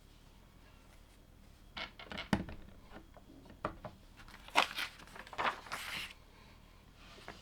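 Plastic LEGO parts bag crinkling and rustling, loudest a little past the middle, with a few sharp clicks of plastic bricks being handled before it.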